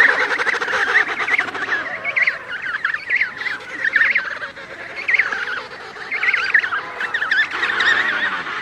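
A flock of birds calling at once: many short, wavering calls overlapping in a dense chorus.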